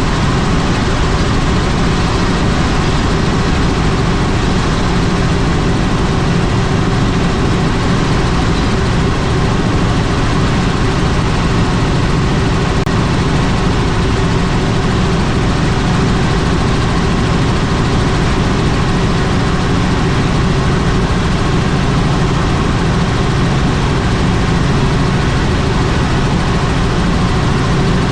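Helicopter in flight: loud, steady engine and rotor noise that does not change.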